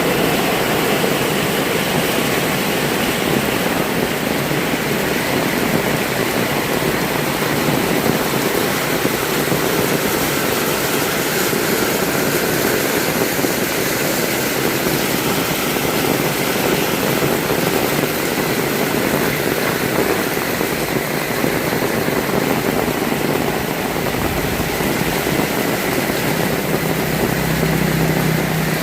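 Heavy rain pouring steadily, a dense, even hiss of rainfall. A low hum joins in faintly near the end.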